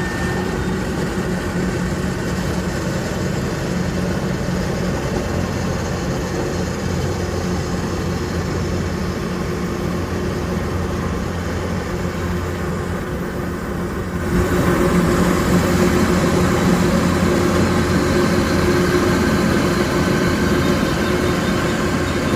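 Rice combine harvester running steadily, its engine and threshing gear going as it separates the grain from the straw. About two-thirds of the way through the sound gets louder and fuller.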